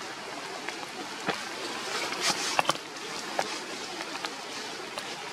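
Steady hiss of rain falling through forest canopy, with a handful of short sharp ticks scattered through it, the strongest a couple of seconds in.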